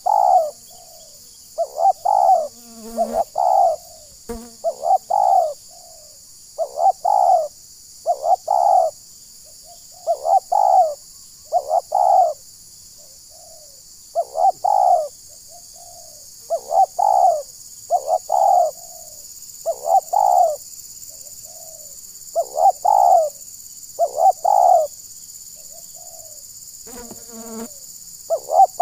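Spotted dove cooing: short phrases of two or three coos, repeated about every second and a half to two seconds.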